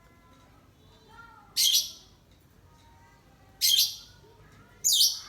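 A lovebird giving three short, harsh, high-pitched shrieks, about a second or two apart, with faint whistled chirps in between.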